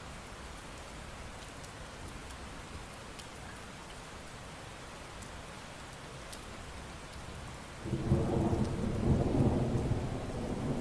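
Steady rain falling, with scattered faint drop ticks. About eight seconds in, a loud low rumble of thunder breaks in.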